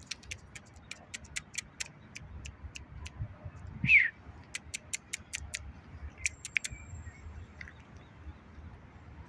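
A short bird call that glides downward, about four seconds in, over a series of sharp, high clicks coming about two to three times a second, with a faint low rumble underneath.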